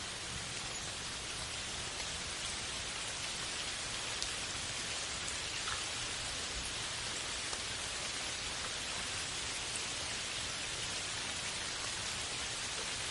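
Steady rain, a soft even hiss with faint scattered drops.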